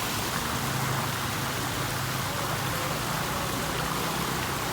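Pump draining floodwater: a steady rush of pouring water over a low, even motor hum.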